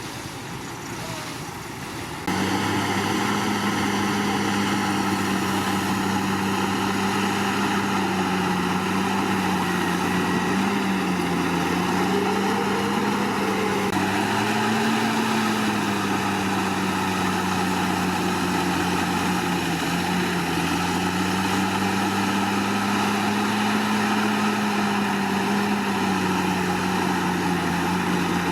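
Komatsu D61PX bulldozer's diesel engine running steadily under work, its drone rising and falling slightly in pitch. It gets suddenly louder about two seconds in.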